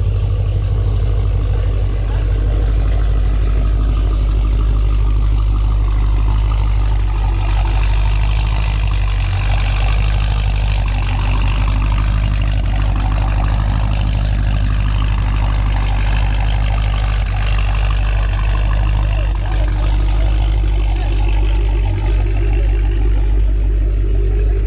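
Loud V8 muscle-car engine idling steadily with a deep, even exhaust note, with faint voices in the background.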